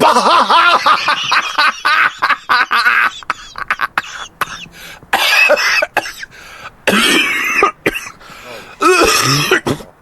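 A person's voice close to the microphone, loud and broken into short bursts with gaps between them.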